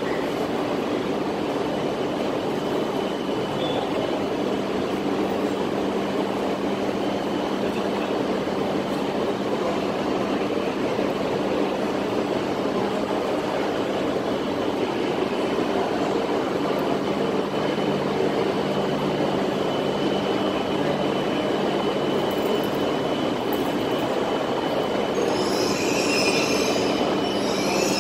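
E6-series Shinkansen train creeping along the platform track toward a waiting E5 for coupling. Its wheels and running gear rumble steadily under a constant hum and a faint high tone. Brief high wheel squeals come near the end as it slows.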